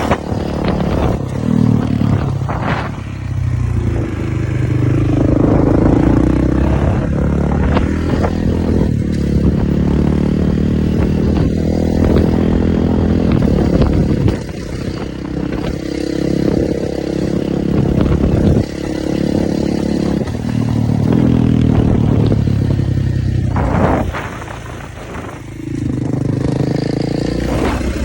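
Kawasaki KX450 dirt bike's single-cylinder four-stroke engine running hard, its pitch rising and falling again and again as the throttle is opened and closed, with a few sudden drops in level where the throttle shuts.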